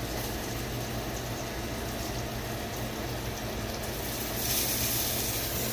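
Hamburger patties frying in a skillet, a steady sizzle over a low hum, growing louder and brighter about four seconds in.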